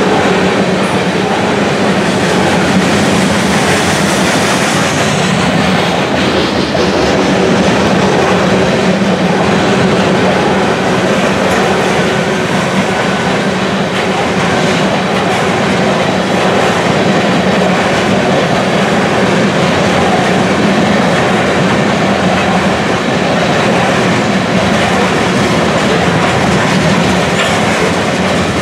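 Covered hopper cars of a freight grain train rolling past close by: a loud, steady noise of steel wheels running over the rails.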